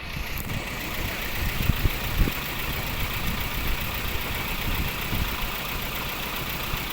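1982 Honda Civic Excellent's engine idling steadily, with a few thumps about two seconds in.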